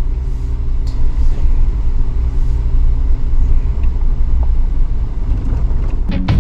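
Suzuki Jimny on the move, a loud steady low rumble of engine and road. Music comes in near the end.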